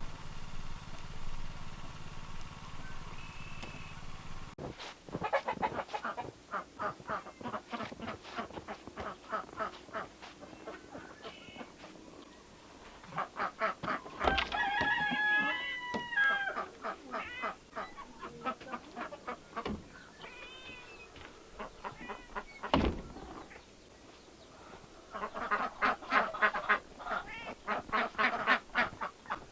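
Backyard poultry calling in quick runs of short repeated calls. A louder, drawn-out call with a bending pitch comes about fourteen seconds in, and another dense run of rapid calls comes near the end. The first few seconds are the tail of a piece of music that cuts off about four and a half seconds in.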